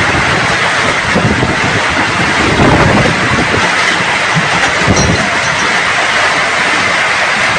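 Strong wind blowing hard and steadily, with gusts buffeting the microphone into a loud rumbling rush.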